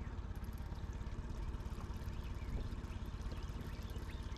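Boat motor running steadily at trolling speed, a low, even pulsing hum.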